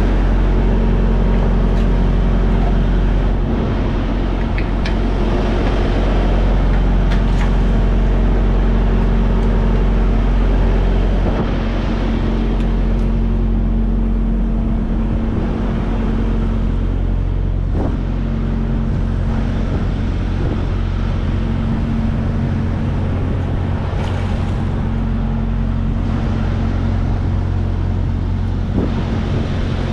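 Semi-truck diesel engine idling, a steady low hum with a few faint clicks and knocks.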